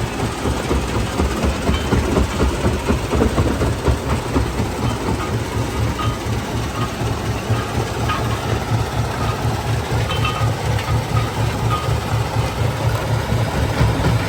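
Stone crushing plant machinery running: a steady heavy rumble that pulses rapidly, with scattered small knocks of rock.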